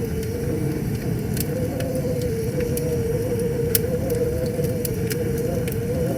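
Wood fire crackling with scattered sharp pops over the steady low rush of a river, with a wavering hum running under it. The loudest pop comes a little before four seconds in.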